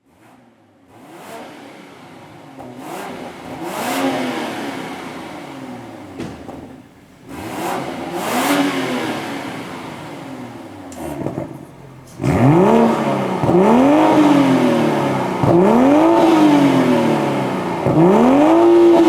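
BMW M340i's 3.0-litre turbocharged inline-six, through a Brilliante aftermarket exhaust, revved repeatedly at standstill, each rev climbing quickly and falling back slowly. Two quieter revs come first, then about twelve seconds in it turns much louder with four sharp revs.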